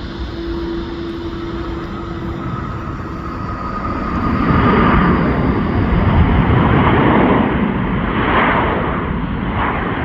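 Jet airliner's engines: a steady whine, then a broad rush of engine noise that grows louder about four seconds in and stays loud.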